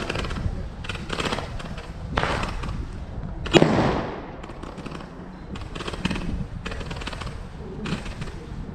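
New Year's Eve fireworks going off: a run of crackling bursts about once a second, with one sharp, louder bang about three and a half seconds in.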